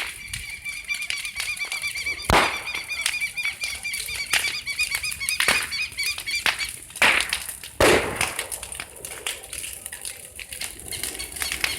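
Burning bonfire crackling, with irregular sharp pops, two of them much louder about two seconds in and near eight seconds in. A bird or chick chirps repeatedly through the first seven seconds or so.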